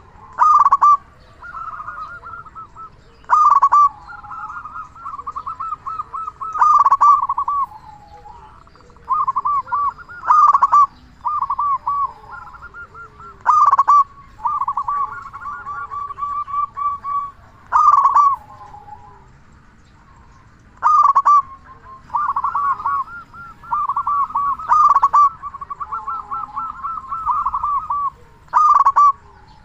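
Zebra dove (perkutut) cooing over and over. A loud call comes about every three to four seconds, nine times, with softer, rapid rolling coos in between.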